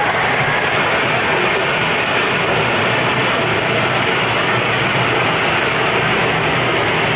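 Loud, steady rushing roar of the Earthquake ride's simulated quake effects, heard from the seats of the mock subway train, with no let-up or sudden crash.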